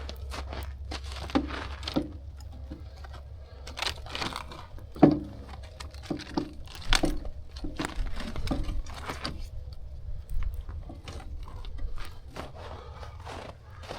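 Pieces of firewood being handled and laid onto a campfire: irregular crunches, cracks and knocks, the sharpest about five seconds in.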